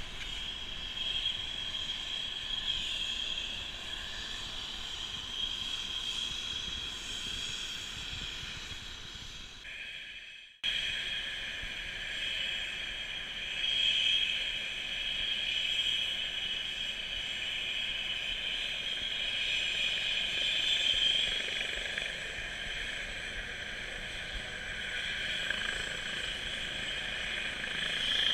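Eurocopter EC135 helicopter running, a steady high whine over rushing noise. The sound drops out abruptly about a third of the way through, then resumes much the same.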